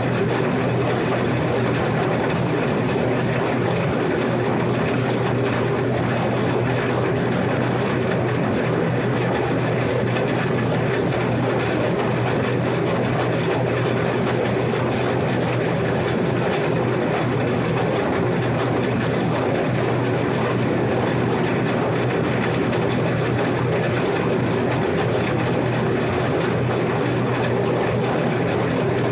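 Case IH 2388 combine running steadily while cutting wheat: the engine and threshing machinery make a constant mechanical drone with no change in pace.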